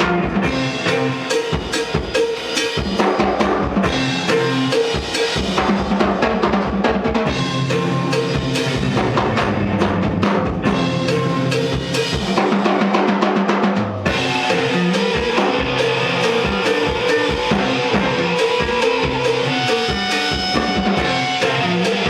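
Live rock band playing an instrumental passage, the drum kit driving it with kick and snare under bass and guitar. The mix changes abruptly about two-thirds of the way through.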